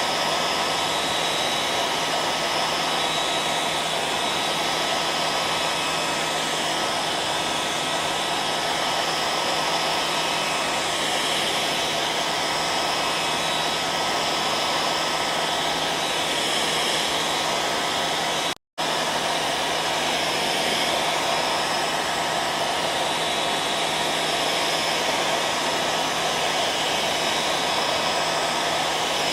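Hair dryer running steadily, a constant rush of air with a steady motor hum, cutting out for a split second about two thirds of the way through before carrying on unchanged.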